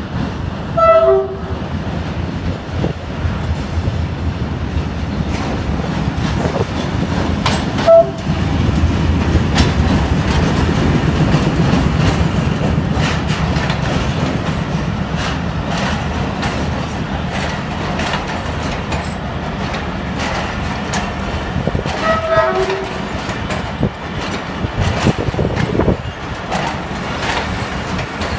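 Diesel-hauled passenger train moving through the station, a steady rumble with the clatter of wheels over rail joints. Short blasts of the train horn sound about a second in and again near the end.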